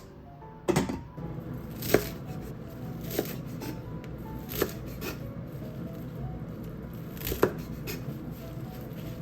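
A handful of sharp, irregularly spaced knocks from kitchen work, like a knife striking a cutting board, over background music.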